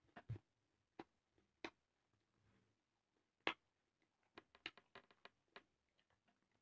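Close-up eating sounds: scattered wet mouth clicks and smacks of chewing a mouthful of leafy greens and rice, the loudest about halfway through, then a quick run of small clicks.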